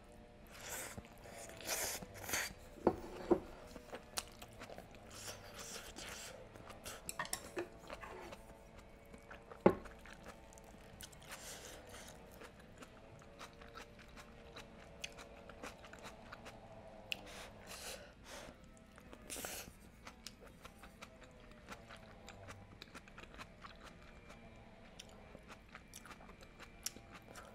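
Close-miked chewing and mouth sounds of a person eating budae jjigae (Korean army base stew) with rice: wet chewing with some crunching and many small clicks of chopsticks and spoon. One sharp click stands out about ten seconds in.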